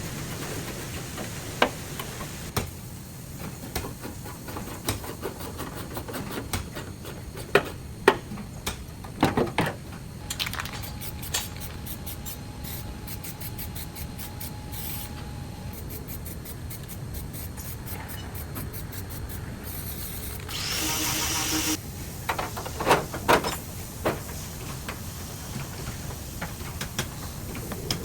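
Auto body workshop sounds: scattered sharp metal clicks and knocks over a steady low hum, with a loud hiss lasting about a second and a half about twenty seconds in.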